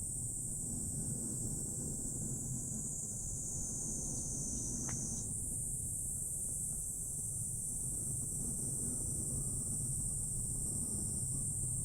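Steady high-pitched chorus of insects shrilling, its pitch stepping up slightly about five seconds in, over a steady low rumble.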